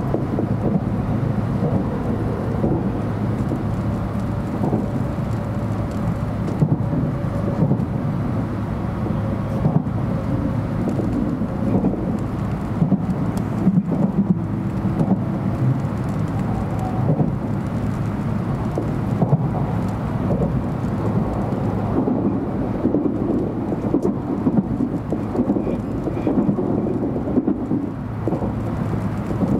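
Cabin noise inside a JR Central 700 Series Shinkansen car on the move: a steady low rumble of wheels running on rail, with frequent short clicks and knocks from the track.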